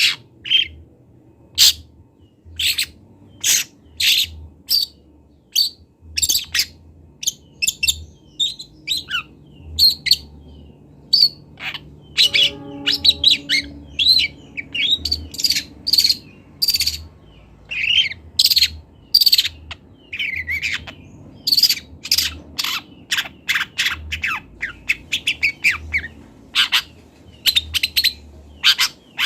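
Juvenile long-tailed shrike singing a quick, broken run of sharp chirps and harsh squawky notes, working in imitations of other birds' calls as it learns its song.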